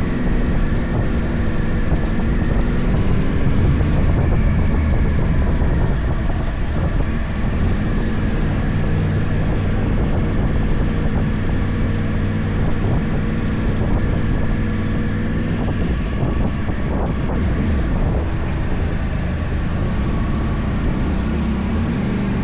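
Yamaha YZF-R1 crossplane inline-four with a full Akrapovič exhaust running under way, its note rising and falling gently with the throttle, with wind noise on the microphone.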